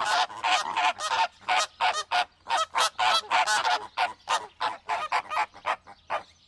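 A flock of flamingos honking: many short, goose-like calls in quick, overlapping succession, fading away near the end.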